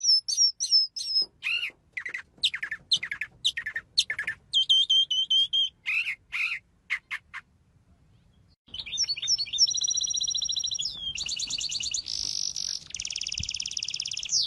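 A bird singing: a string of short chirps and whistles, a brief pause about eight seconds in, then long, fast trills.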